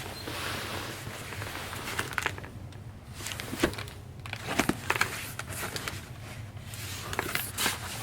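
Rustling and crinkling handling noise with scattered sharp clicks and knocks, the loudest a few in the middle and one near the end.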